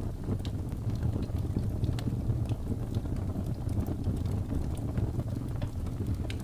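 Wood fire burning, a steady low rumble of flames with frequent sharp crackles and pops from the burning wood.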